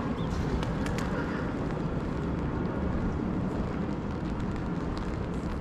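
Steady low rumble of city street ambience, with a few faint clicks.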